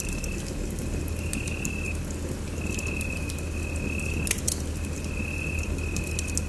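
Wood fire burning in a fireplace, with sharp irregular crackles over a steady low rumble. A thin high steady tone sounds in on-and-off stretches.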